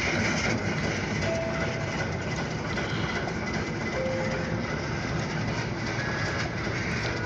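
Freight train cars rolling past with a steady rumble and clatter of wheels on rail, and a few brief thin tones.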